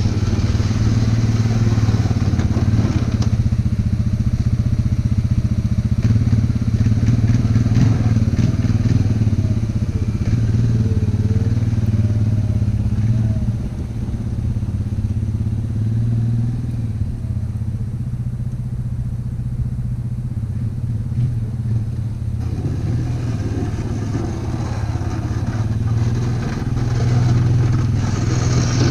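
ATV engine running steadily while plowing snow, easing off a little in the middle and picking up again near the end.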